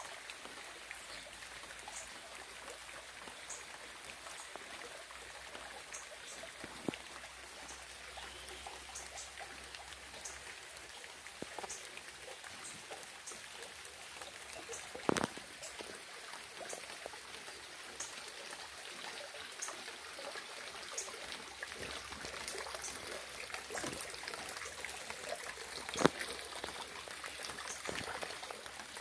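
Steady light rain with scattered individual drops striking close by, and a trickling of water. Two louder drops stand out, about halfway through and near the end.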